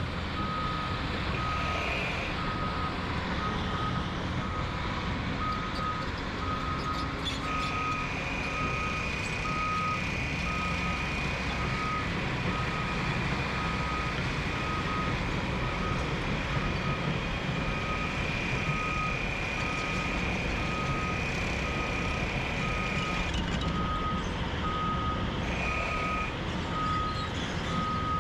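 Reversing alarm on a construction machine beeping at an even pace, about one beep a second, over a running engine. A steady high-pitched whine sounds through the middle of the stretch.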